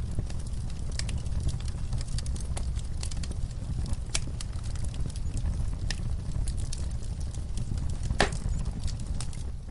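Wood fire in a fireplace crackling: irregular sharp pops and snaps over a steady low rumble of the flames, with one louder pop about eight seconds in.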